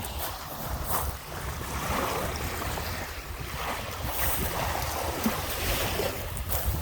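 Lake waves washing up on the shore, swelling and easing every second or two, with wind buffeting the microphone as a steady low rumble.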